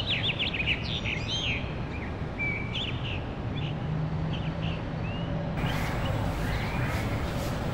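Small birds chirping and twittering over a steady low outdoor background hum. The chirps are thick at first and thin out, and about five and a half seconds in the birdsong stops and gives way to a broader, even outdoor noise.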